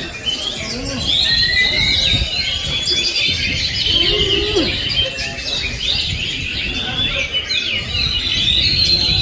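Caged songbirds, Oriental magpie-robins (kacer) among them, singing all at once in a dense, continuous chorus of whistles, trills and chirps, over a low murmur of voices.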